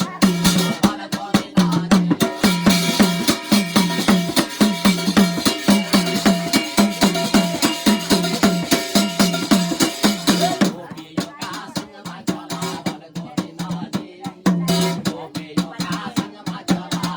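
Instrumental passage of Garhwali jagar folk music: fast, steady drumming with ringing percussion over it, between sung verses. The playing gets quieter about eleven seconds in.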